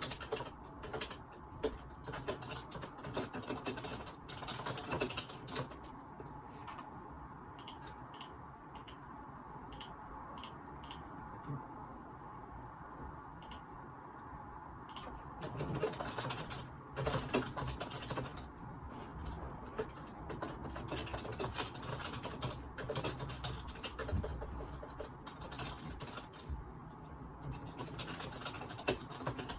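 Computer keyboard typing in quick runs of key clicks, thinning out to scattered keystrokes for a stretch in the middle and picking up again after about fifteen seconds, picked up through a phone microphone.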